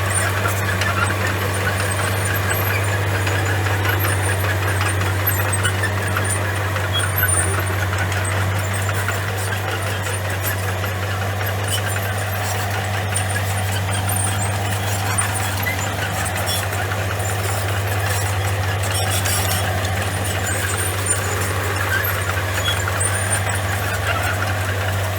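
Komatsu bulldozer's diesel engine running at a steady pitch, with scattered small clicks and rattles over its hum.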